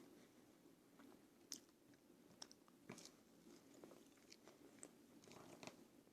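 Faint close-up chewing of food, with irregular small wet mouth clicks and smacks; the sharpest click comes about a second and a half in.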